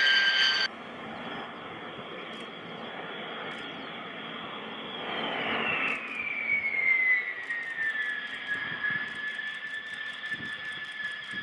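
Turbofan jet engines of a B-2 Spirit stealth bomber: a steady rush with a high whine. A louder whine cuts off abruptly under a second in, and from about five seconds in the whine slides down in pitch and then holds steady as the aircraft goes past.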